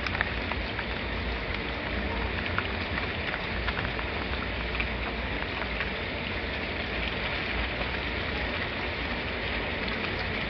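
Steady rain on a surface: a continuous hiss with scattered single drop ticks over a low rumble.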